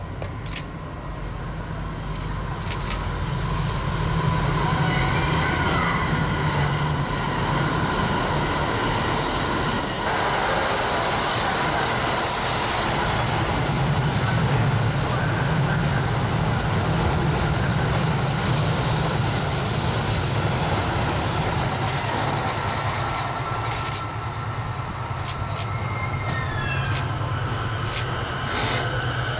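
Electric train running past on the track: a long, loud, steady rumble that builds over the first few seconds. A low motor hum runs under it, and thin high squealing tones drift in and out above it.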